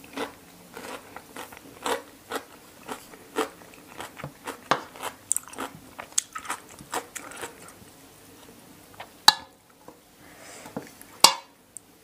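Close-up chewing of crisp raw bitter gourd: wet crunches about two or three a second, then two sharp loud clicks near the end.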